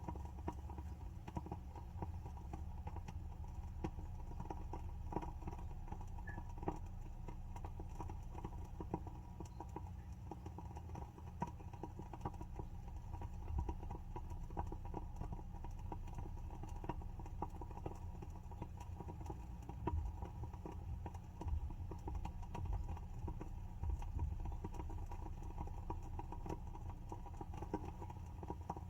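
Wooden wick of a WoodWick candle burning with a steady run of irregular crackles and small pops, over a low steady hum.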